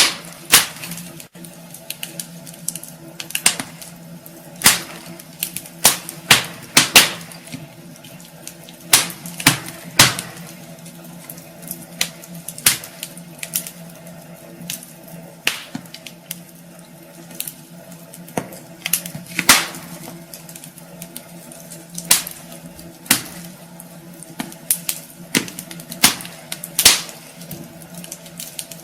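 Wood fire in a fireplace crackling, with irregular sharp pops every second or so, some louder than others, over a steady low hum.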